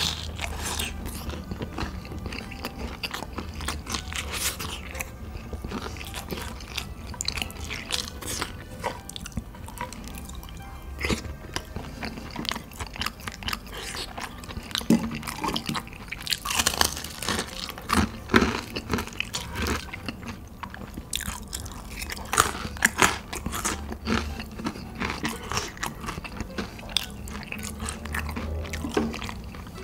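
A man chewing and biting food, with frequent irregular crunches and crackles.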